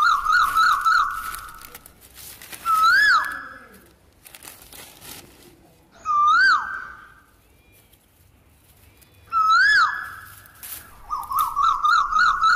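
A bird calling: a fast warbling trill, then three single whistled notes that rise and drop, about three seconds apart, and the trill again near the end.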